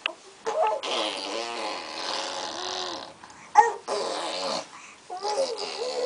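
Baby babbling and cooing in a high voice, in a few stretches of wavering pitch, with a short loud squeal about three and a half seconds in.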